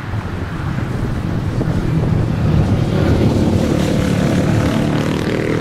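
Boeing 737-800's CFM56 jet engines on landing approach, a rumble with a steady pitched hum that grows louder about halfway in, as wind buffets the microphone.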